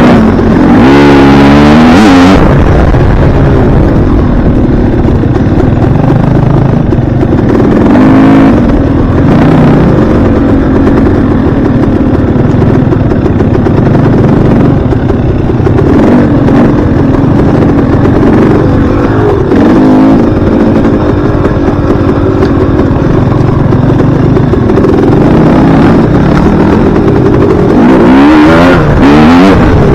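Dirt bike engine running hard throughout, the revs climbing and dropping as the throttle is worked, with sharp rises in the first two seconds and again near the end.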